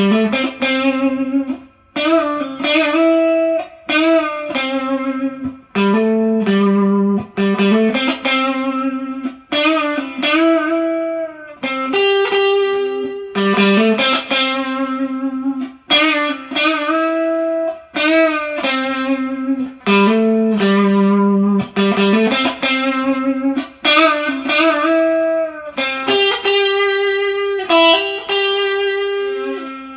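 Electric guitar on its neck pickup, played through a Bluesbreaker-style overdrive pedal into a JTM45-style valve amp with spring reverb: a lightly driven single-note lead line, many notes held and ringing out.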